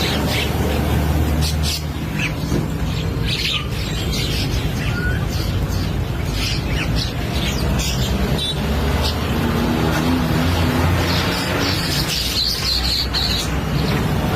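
Mynas chattering: many short, high, scattered chirps and squawks, one after another, over a steady low background hum.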